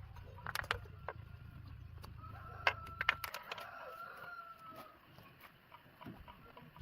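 A rooster crowing once, a long call of about three seconds starting a couple of seconds in. Sharp clicks and knocks come around it, and a low hum stops about halfway through.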